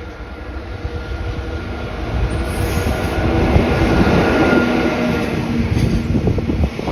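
EF66 electric freight locomotive and its train passing close by, building to a peak about halfway through, with steady tones from its motors and wheel clicks over rail joints near the end.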